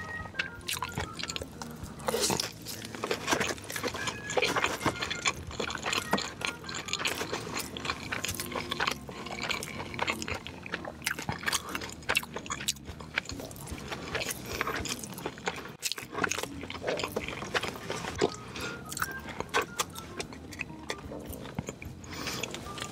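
Close-miked eating sounds: chewing with many irregular sharp clicks and crunches.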